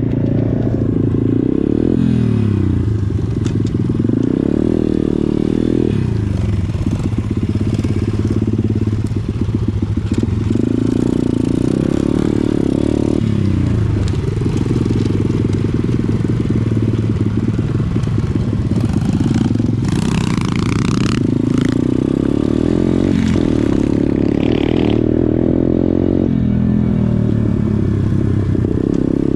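Pit bike's small single-cylinder four-stroke engine running under way, its pitch rising and falling again and again as the throttle is opened and closed.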